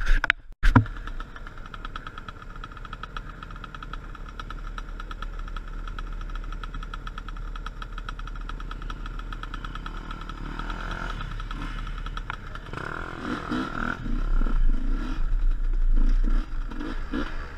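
Enduro motorcycle engine running steadily, then revving up and down in uneven surges over the last few seconds. Two sharp knocks come right at the start.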